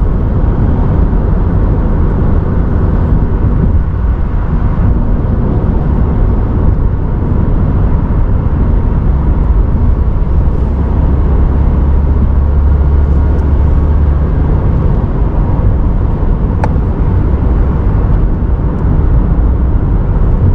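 A car being driven: steady engine and road noise, with the low drone swelling for a few seconds past the middle.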